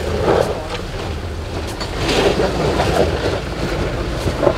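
JK Jeep Wrangler's engine working hard as it climbs a muddy slope out of a creek crossing, surging several times, over the rush of the flowing creek.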